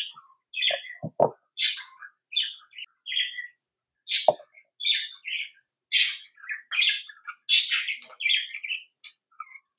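A small bird chirping over and over in short high calls. A few light knocks come about a second in and again around four seconds in.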